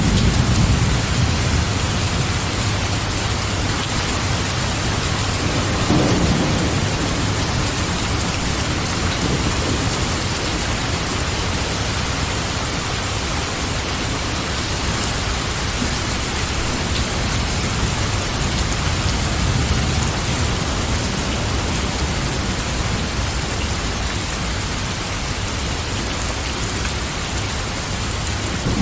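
Steady heavy rain falling, with low rolling thunder underneath that swells about six seconds in.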